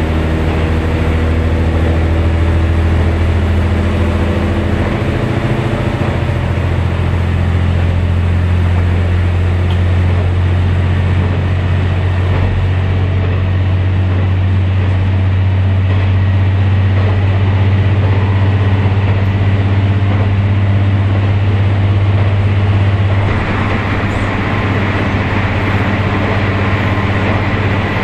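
Ibara Railway diesel railcar heard from inside the cabin, running along the line with a steady engine hum under the rumble of the wheels on the rails. About three-quarters of the way through, the sound changes, with more hiss, as the car enters the short Oshinobe tunnel.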